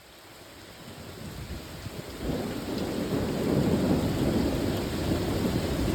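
Thunder from a close lightning strike, building over the first two seconds and then breaking into a loud rumble about two seconds in that rolls on to the end. Rain falls steadily underneath.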